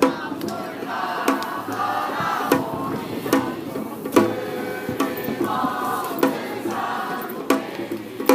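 Korean pungmul percussion band playing, with drum strikes at a steady beat of about one every 0.8 s under sustained pitched voices like group chanting.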